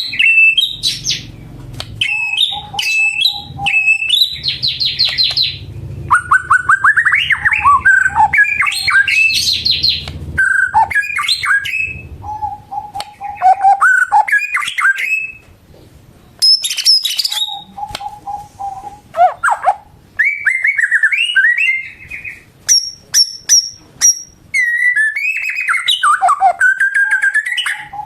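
White-rumped shama (murai batu) singing loudly and continuously, with a varied song of whistles that glide up and down, quick trills and short repeated notes, broken by brief pauses.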